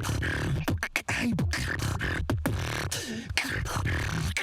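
Solo beatboxing: a fast run of sharp mouth-made percussion clicks and snares over a low vocal bass line, with short gliding pitched sounds woven in.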